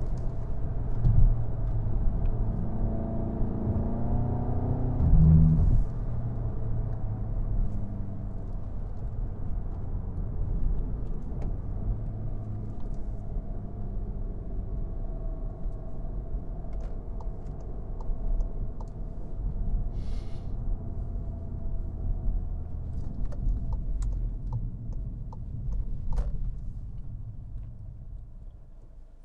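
2017 Volkswagen GTI's turbocharged 2.0-litre four-cylinder engine with tyre noise, heard from inside the car. The engine pitch rises and falls under load for the first few seconds, then settles into a steady cruise, and the sound fades as the car slows to a stop near the end.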